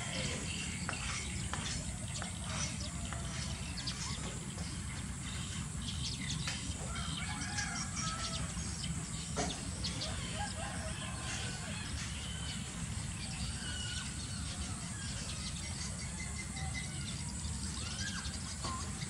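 Birds calling and chirping in short scattered calls over a steady low rumble.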